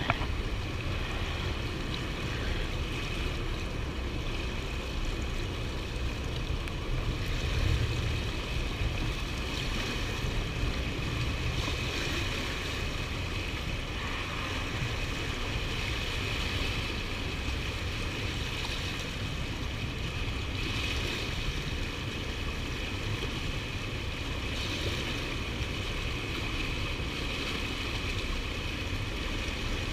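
Steady rush of fast river water below a dam's spillway, with wind rumbling on the microphone and a stronger gust about eight seconds in.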